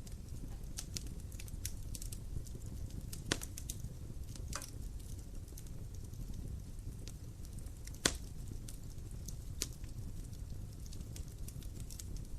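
Wood fire crackling in a fireplace, with irregular sharp pops over a low steady rumble; the loudest snaps come about three seconds in and twice more later on.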